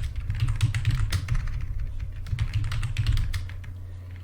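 Fast typing on a computer keyboard, a dense run of key clicks that thins out near the end, over a steady low hum.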